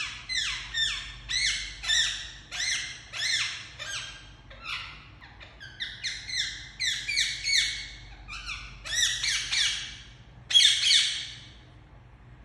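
Indian ringneck parakeet giving a rapid series of short, harsh squawking calls, each dropping in pitch, about two or three a second, with the loudest couple near the end before it stops.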